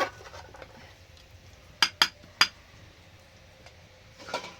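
Metal kitchenware clinking: three sharp, ringing clinks about two seconds in, with a few more knocks at the start and near the end.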